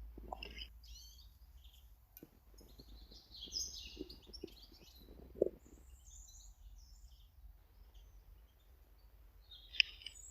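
Small garden birds chirping and twittering, with scattered short calls and trills, mixed with soft irregular knocks and a sharp click near the end.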